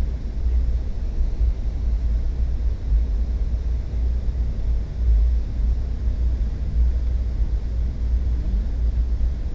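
Passenger train rolling along, a steady low rumble heard from inside the passenger car.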